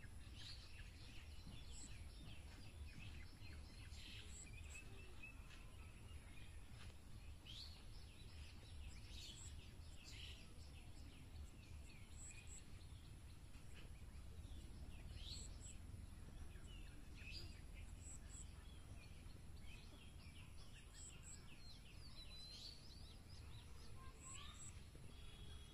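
Faint outdoor background: a steady low rumble with scattered short bird chirps throughout.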